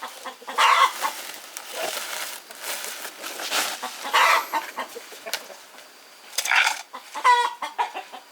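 Chickens clucking: a handful of short calls spread out, the clearest a brief pitched squawk near the end.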